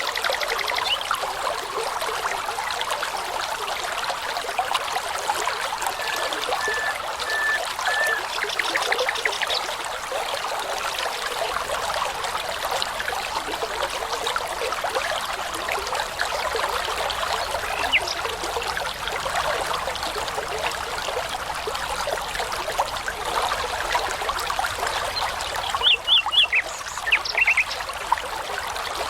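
Babbling brook running steadily, with scattered songbird notes over it: a short run of even notes and a quick trill about seven to nine seconds in, and a burst of calls near the end.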